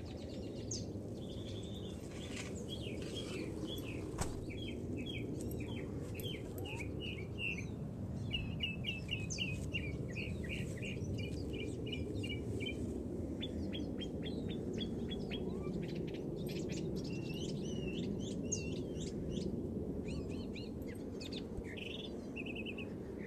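Small songbirds chirping, with quick runs of short high notes repeated again and again, over a steady low background rumble.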